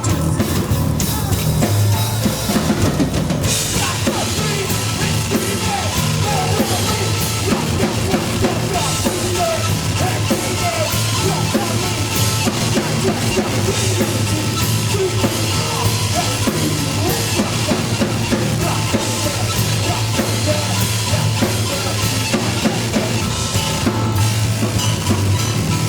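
Live band playing loud without vocals: a drum kit driving the beat with bass drum and snare, over sustained low bass notes.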